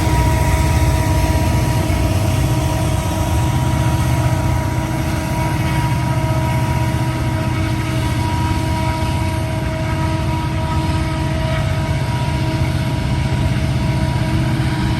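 A heavy engine running steadily: a loud, even low drone with a faint constant whine on top.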